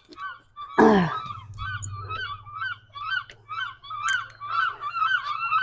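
A flock of gulls circling overhead and calling over and over in short, agitated cries, with a louder cry about a second in.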